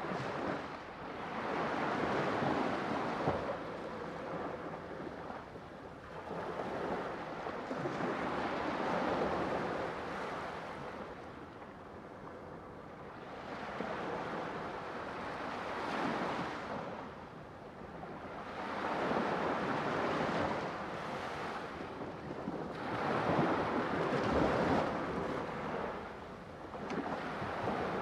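Sea waves breaking and washing on a shore, the surf swelling and receding every few seconds.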